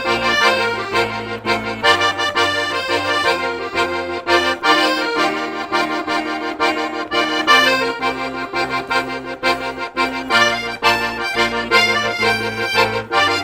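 Background music: an accordion playing a lively tune over held bass notes.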